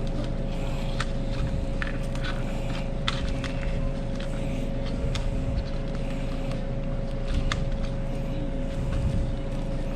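Steady hum of commercial kitchen equipment with a constant tone. Scattered sharp clicks and knocks, about a dozen, from utensils and containers being handled while a dish is plated.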